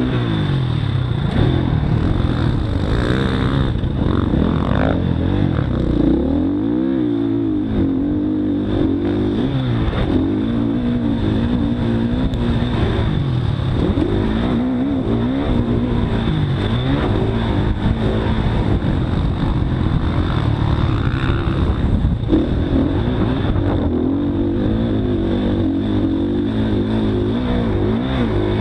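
Motocross dirt bike engine running hard, its pitch rising and falling over and over as the throttle is opened and shut.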